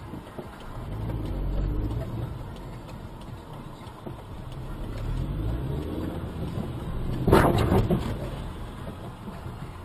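Car engine running with a low rumble, pulling up in pitch twice. About seven seconds in comes a loud, harsh crash lasting under a second: a vehicle collision.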